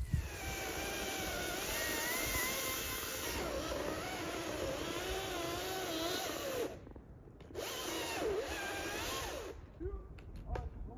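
A power tool's motor running with a wavering pitch. It cuts out about seven seconds in, comes back for about two seconds, then stops.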